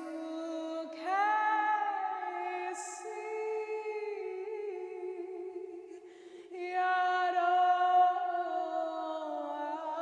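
Wordless female voice toning in long, slow held notes, a cappella, with layered voices overlapping in harmony. A new note swells in about a second in, and after a brief dip another note enters near the seven-second mark.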